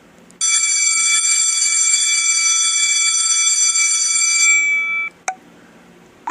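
A steady alarm-like electronic ringing tone of several pitches held for about four and a half seconds, then cut off, followed by a single short click.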